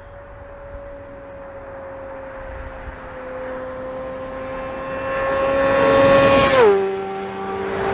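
2013 Honda CBR600RR inline-four with a Two Brothers Black Series slip-on exhaust, passing at a steady engine speed. The engine note grows louder as it approaches, and its pitch drops sharply as it goes by, near the end.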